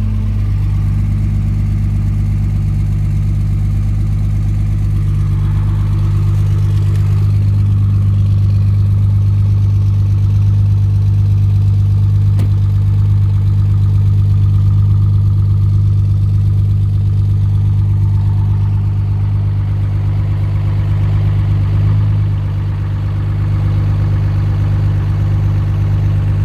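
24-valve 5.9 Cummins inline-six turbodiesel idling steadily just after a cold start at −22 °C. The pitch shifts slightly right at the start and the sound dips briefly about 22 seconds in.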